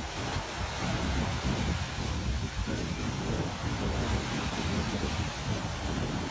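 Ocean waves washing on a beach as a steady hiss, with wind buffeting the microphone in a gusting low rumble.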